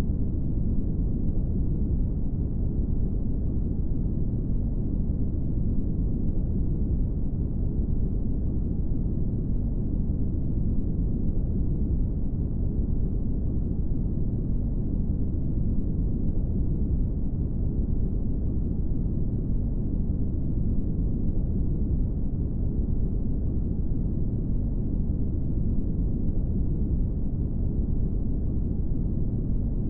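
Brown noise: a steady, deep rushing hiss with most of its weight in the low end and almost nothing in the highs, unchanging throughout.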